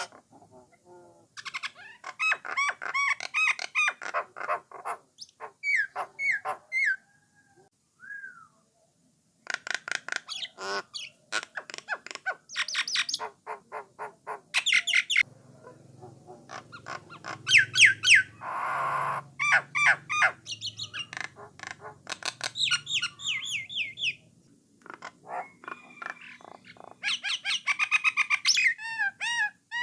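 Jalak Nias (common myna) singing in bouts of rapid repeated whistles and chattering notes, with a short pause about a third of the way in and a harsh, rasping squawk near the middle.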